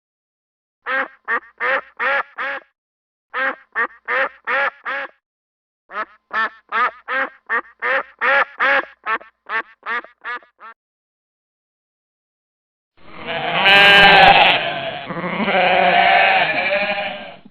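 Duck quacking in quick runs of short calls, three runs in a row. After a pause, a different, longer wavering animal call.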